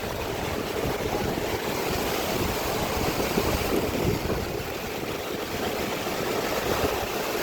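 Swollen floodwater river rushing past: a steady, even noise of fast-flowing water.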